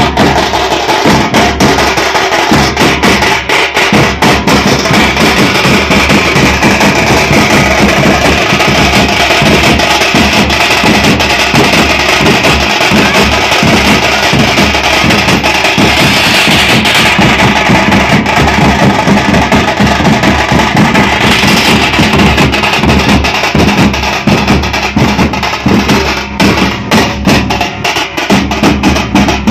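A group of drums played together in a fast, dense, unbroken beat, loud throughout.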